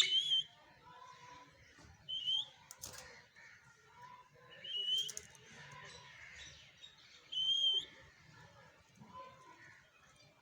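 A parrot giving short whistled calls, each with a quick upward flick, four times a couple of seconds apart, with faint softer chatter between them.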